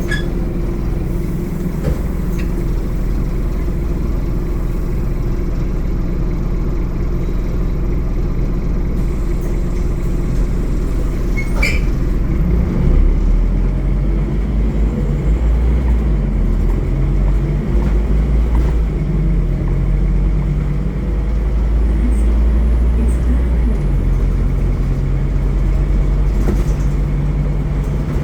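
Scania N230UD OmniCity double-decker bus engine running under way, a steady low drone whose note shifts about 24 seconds in. A single sharp click about 12 seconds in.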